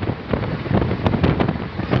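Wind buffeting the microphone outdoors: a rough, gusty rumble that keeps surging and dropping.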